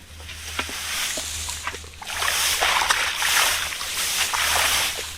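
Splashing and sloshing in shallow muddy water, a few light splashes at first, then much louder churning from about two seconds in.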